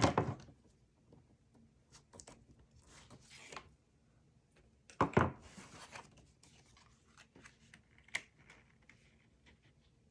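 Cardstock and paper being handled and slid on a work table: scattered short rustles and scrapes, with a sharp knock at the start and another about five seconds in.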